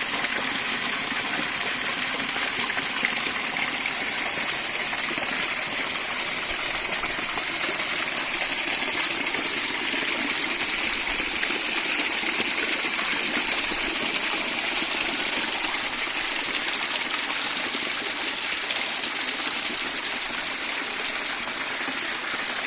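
A stream running: a steady rush and babble of water flowing over stones.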